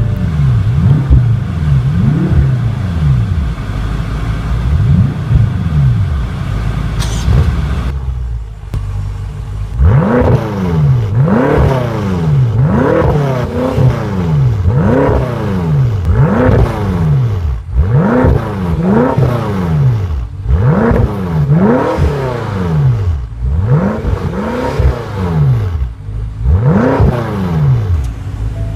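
2014 BMW M5 (F10) twin-turbocharged 4.4-litre V8 just after a push-button start, revved with a run of throttle blips. The revs are uneven at first and drop back to idle briefly about eight seconds in, then come regularly, about one rise and fall a second.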